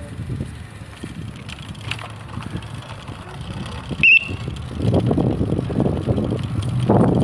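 Wind rumbling on the microphone of a moving bicycle, growing louder from about five seconds in, with one short high squeak about four seconds in.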